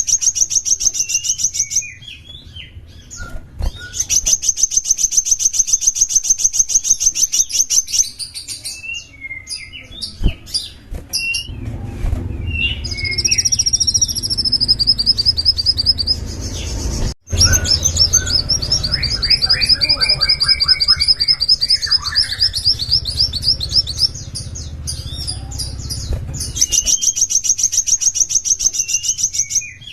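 Sunbird singing: long, very fast high-pitched trills of a few seconds each, separated by short chirps.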